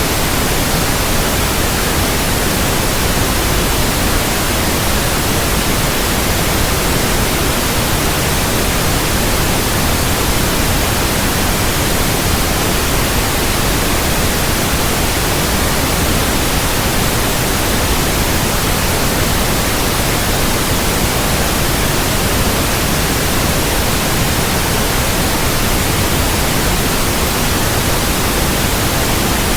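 Steady white noise, an even hiss across all pitches at an unchanging loud level, without any rhythm or variation.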